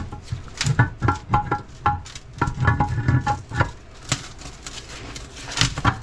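Clinks and knocks of steel transfer case parts being handled during teardown, some strikes ringing briefly.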